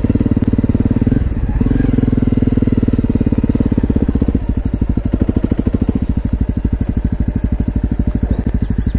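Honda CRF250L's single-cylinder four-stroke engine idling through an aftermarket FMF Q4 exhaust, a steady thump. About four and a half seconds in the note settles and the separate firing pulses come through more plainly.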